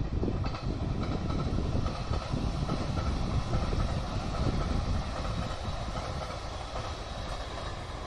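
Multi-car passenger train running past on the line, a steady rumble of wheels on rails.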